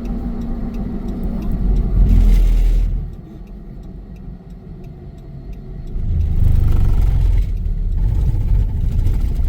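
A car driving, heard from inside: steady engine and road rumble that swells loud about two seconds in, drops back, then rises again about six seconds in.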